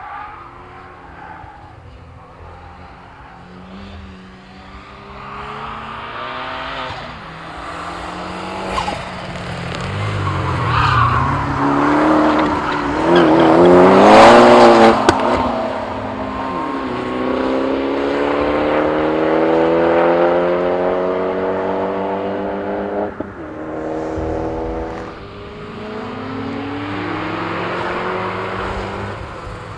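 Turbocharged Fiat Panda 100HP, fitted with a big TD04 turbo, running hard on a track. The engine revs climb again and again through the gears, with short drops at the gear changes. It is loudest about halfway through.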